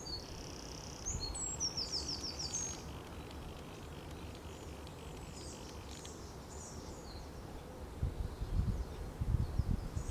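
Songbirds singing outdoors: quick, high chirping phrases in the first few seconds, fainter song later, over a steady low background noise. Near the end, low rumbling buffets become the loudest sound.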